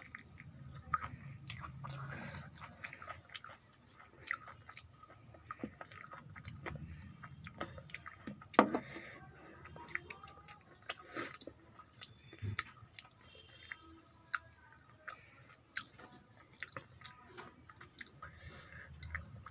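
Close-miked chewing and biting while a person eats a meal of rice, fried vegetables and chicken curry: a string of small wet mouth clicks and smacks, with one louder sharp click about halfway through.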